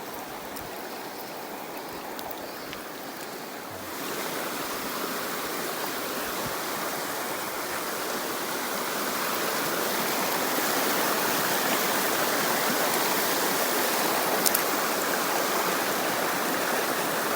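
Mountain stream water rushing steadily over rocks. It grows louder about four seconds in and again about halfway through. A single brief click comes near the end.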